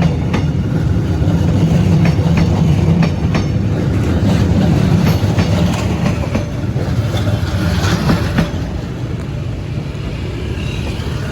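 Passenger train hauled by a D19E diesel-electric locomotive going by, its wheels clattering over rail joints in irregular clicks over a steady low drone. The sound eases a little about two thirds of the way through.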